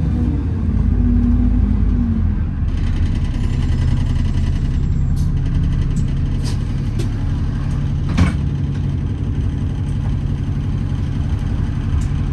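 An Alexander Dennis Enviro400 double-decker bus heard from on board while running: a steady low engine and drivetrain drone, with a pitched whine that shifts in pitch over the first two seconds and then holds steady. A single sharp knock sounds about eight seconds in.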